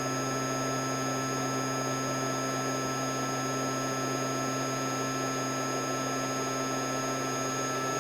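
Steady electrical hum with a constant hiss and a few fixed high tones from the repair bench equipment, unchanging throughout.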